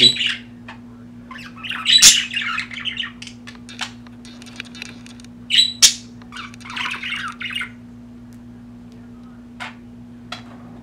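Budgerigars chattering and squawking in several short bursts, the warbling calls of a pair courting; the last few seconds are mostly quiet apart from a couple of short clicks. A faint steady hum runs underneath.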